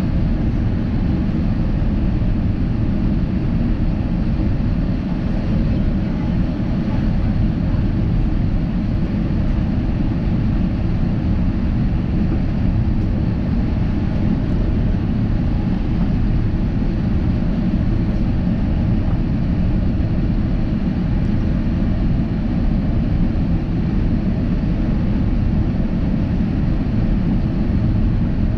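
Steady cabin noise of an Airbus A350-900 airliner in descent: an even, low rumble of airflow and engines with a softer hiss above it, unchanging throughout.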